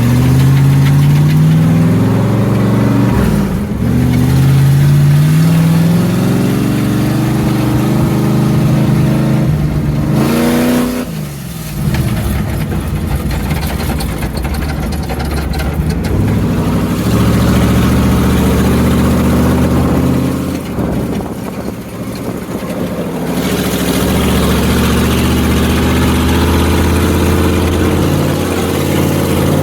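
Mini S10 monster truck's V8 engine running and being revved over and over, its pitch climbing and falling as the throttle opens and closes, with a sharp rev and drop about a third of the way in and easing off briefly twice.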